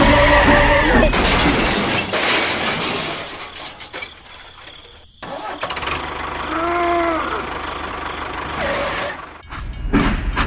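Train noise: a horn blast at the start, then a rumbling run that fades, stops abruptly about five seconds in and resumes, with a second short horn blast that rises and falls in pitch about seven seconds in.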